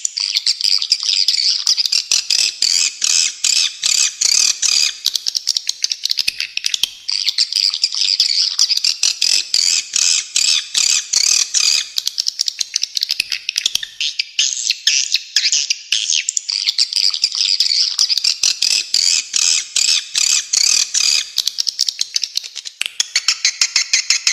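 Edible-nest swiftlets twittering: a dense, continuous stream of rapid high chirps and clicking calls.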